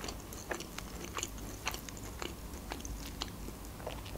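A person chewing food with the mouth closed: soft, irregular wet clicks of the jaw and tongue, roughly two a second.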